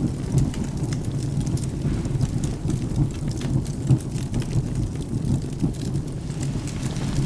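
Wood fire crackling with frequent small pops and snaps, over a steady low rumble of rain and thunder.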